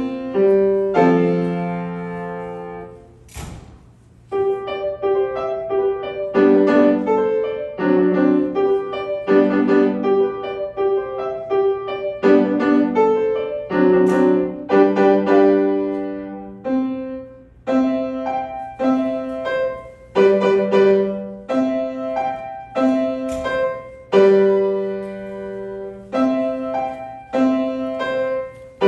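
Solo piano playing. A held passage fades away about four seconds in, then a lively passage of short, detached notes and chords follows.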